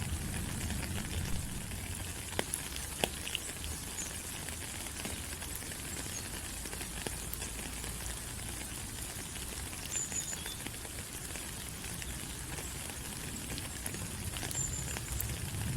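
Steady rain falling on rainforest foliage: an even hiss with many individual drops ticking on leaves and a low rumble underneath. A couple of brief high chirps come through, once about two-thirds of the way in and again near the end.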